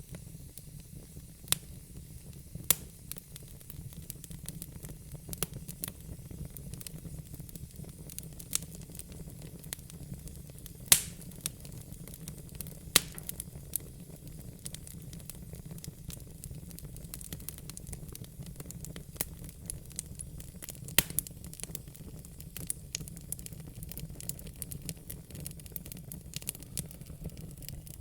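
Wood fire in a fire pit crackling: irregular sharp pops and snaps, the loudest about eleven seconds in, over a steady low rumble.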